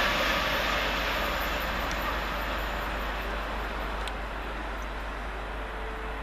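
Two coupled Class 387 electric multiple units running past, a steady rushing rail noise that slowly fades as the train draws away.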